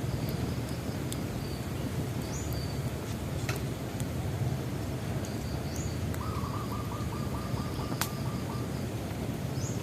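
Wood bonfire crackling with a few sharp pops, the loudest about eight seconds in, over a steady low rumble. A bird repeats a short rising chirp about every four seconds, and a quick trill runs for a couple of seconds past the middle.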